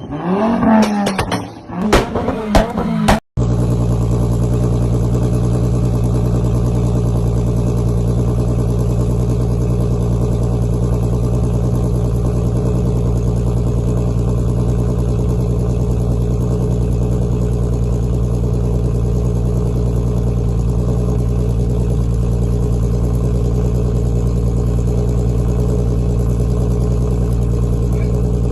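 The 3.6-litre VR6 from a Passat R36, swapped into a Volkswagen Golf 6 GTI, idling steadily on an even, unchanging note. The idle starts after a sudden cut about three seconds in.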